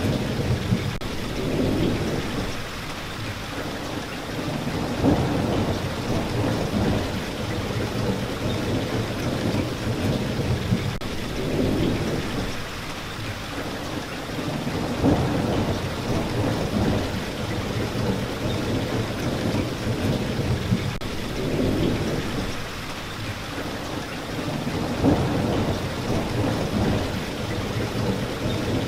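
Steady rain hissing, with low rolling thunder that swells and fades every few seconds.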